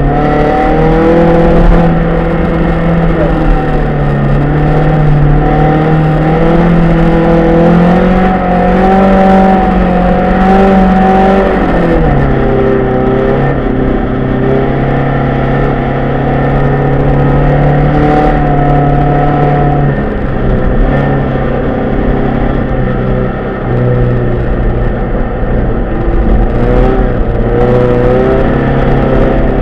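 Rally car engine heard from inside the cabin, run hard at high revs on a snowy stage, its pitch holding and stepping between gears; the revs drop sharply about twelve seconds in. Tyre and road noise runs underneath, with a few short knocks.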